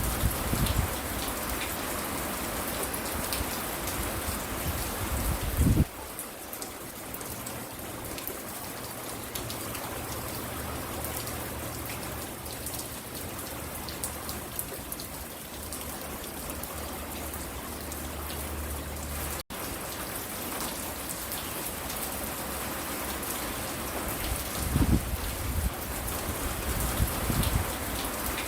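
Steady rain falling and pattering on the porch, with fine drop ticks throughout. Low rumbles come and go in the first few seconds and again near the end, and the sound drops out for an instant past the middle.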